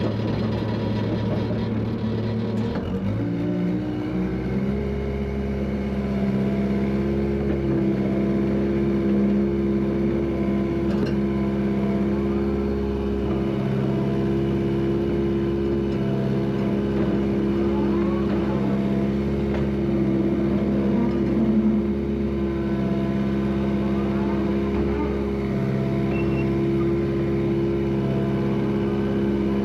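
Heavy equipment's engine running steadily. About three seconds in it revs up to a higher speed and holds there, rising and falling slightly as the load changes while it works.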